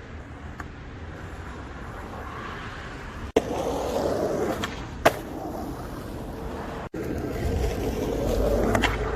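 Skateboard wheels rolling on pavement, with a sharp clack of the board about five seconds in and another a little over three seconds in.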